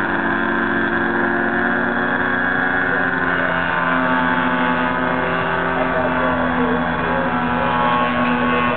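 DLE-30 single-cylinder two-stroke gas engine of an RC aerobatic plane running in flight, turning an 18x8 wooden propeller, with a steady buzzing note. The pitch shifts slightly as the plane manoeuvres, rising a little about three and a half seconds in.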